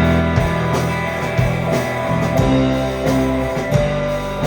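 Live rock band playing an instrumental passage between vocal lines: guitar, bass and drums, with drum hits keeping a steady beat.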